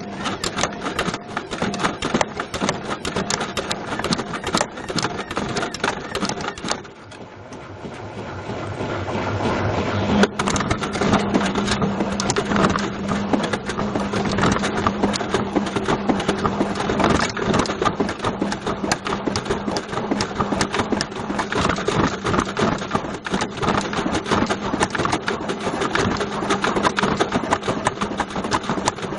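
Beko washing machine's drum turning with a Bush VCR807 video recorder tumbling inside, a loud, constant clattering and banging of the recorder against the drum. The clatter dies down about seven seconds in, then builds back up, with a steady motor hum from about ten seconds in.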